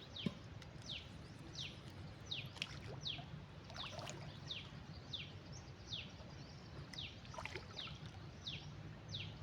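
A bird calling over and over in short, quick down-slurred notes, about two a second, over a steady low hum, with a couple of faint clicks in the middle.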